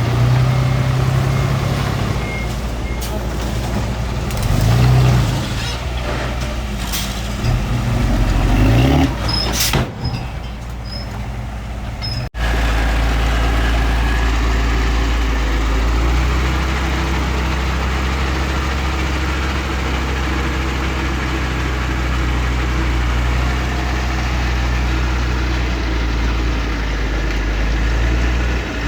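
Diesel engines of earthmoving machines at work: an engine changing in pitch and load, with short high beeps near the start. About twelve seconds in, the sound breaks off and a steady low diesel drone follows.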